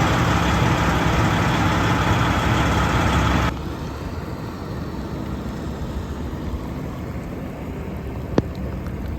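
Semi truck's diesel engine idling steadily, then the sound drops abruptly about three and a half seconds in to a quieter steady hiss. A single sharp click comes near the end.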